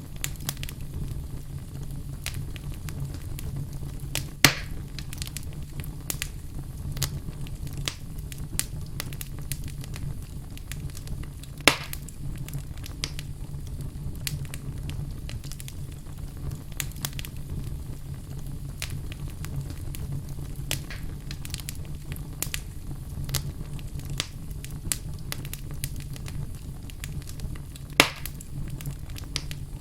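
Wood fire burning in a fireplace, crackling continuously over a steady low rumble, with three louder sharp pops spread through.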